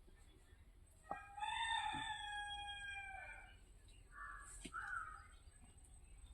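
Peacock calling: one long call starting about a second in and held for over two seconds with a slight fall in pitch, then two short calls.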